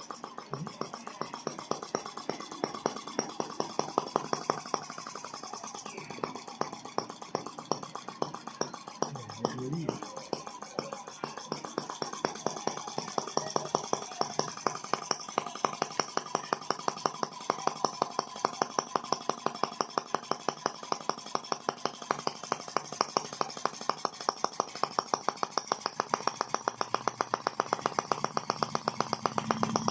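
Miniature model of the Benz No. 1 tricycle's single-cylinder gasoline engine running, its firing strokes coming as a fast, even series of sharp ticks that quickens in the second half.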